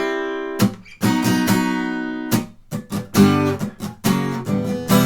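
Acoustic guitar strummed slowly in the gallop strum, down-up-down triplets. Short choked strokes fall between ringing chords, where the strings are muted as the hand moves to the next chord.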